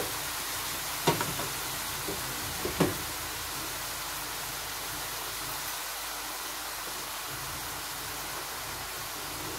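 Sliced button mushrooms sizzling in garlic butter in a stainless steel pan: a steady frying hiss. A metal spoon clinks against the pan twice, about a second in and just before three seconds in.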